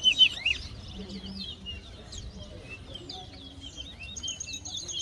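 Caged towa-towa finches singing in a song contest: quick, repeated high chirping phrases, with a fast high trill joining about four seconds in.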